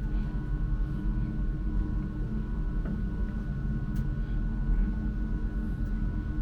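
Passenger lift travelling upward: a steady low rumble with a constant high hum of a few steady tones.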